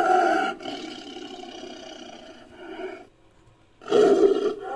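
Made-up creature roars built from recorded tiger roars layered with a stock monster sound. A roar tails off over about three seconds, there is a brief silence, then a second loud roar comes in near the end.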